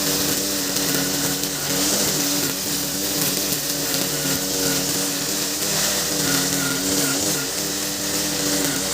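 Nakamura TB33 two-stroke brush cutter running steadily at working speed while cutting grass, its high engine note wavering slightly under load.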